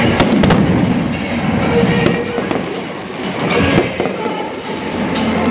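Fireworks display: shells bursting with sharp bangs and crackle, several in the first second and a loud bang a little before four seconds in, with music playing underneath.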